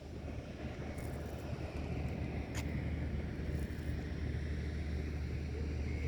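Steady low drone of a boat engine running, with a few faint clicks over it.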